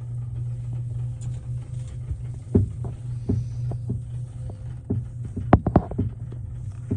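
Steady low hum inside an aerial tram cabin, with scattered sharp knocks and clacks and a quick cluster of louder ones about five and a half seconds in.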